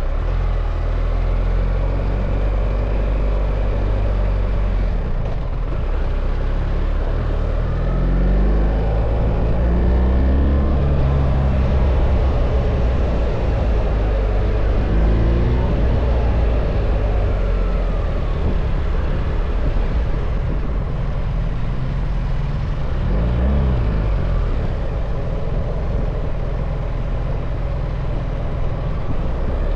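BMW R1300 GS boxer-twin engine running under way, with steady wind and road noise; the engine pitch rises and falls a few times as the rider works the throttle and gears.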